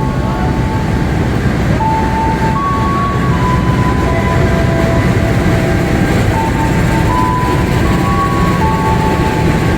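Passenger train rolling into the platform with a steady heavy rumble. Over it sound steady high tones that step up and down in pitch every second or so.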